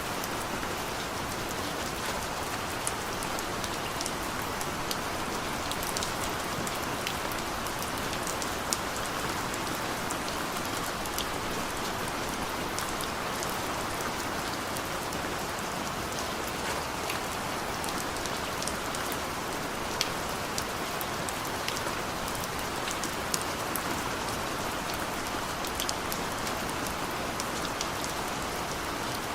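Steady heavy rain falling, an even hiss with scattered sharper drop taps on nearby surfaces. No thunder.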